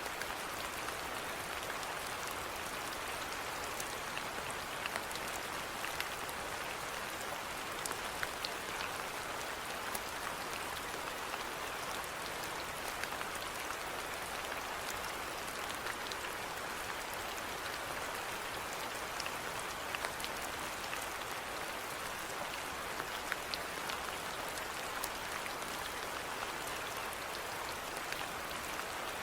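Steady rainfall, a constant hiss with many individual drops pattering and ticking on surfaces.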